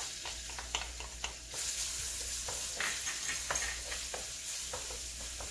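Fresh chopped garlic and ginger sizzling in hot oil in a frying pan, with a spoon clicking and scraping as it is stirred. The sizzle grows louder about a second and a half in.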